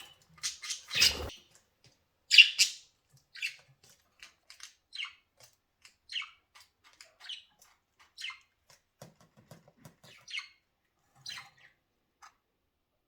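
Pet budgerigars giving short, harsh chirps and squawks, spaced about a second apart and thinning out toward the end. The loudest call comes a little over two seconds in. About a second in there is a brief rustle.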